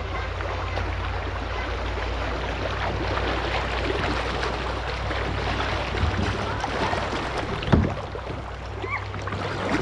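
Steady wash of river water around a kayak, with a low rumble of wind on the microphone underneath. There is one short knock about eight seconds in.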